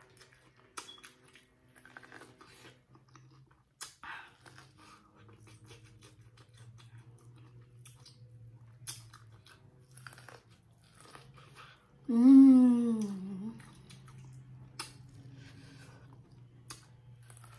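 Biting and chewing of corn on the cob, with scattered sharp crunchy clicks. About twelve seconds in, a loud brief vocal sound falls in pitch.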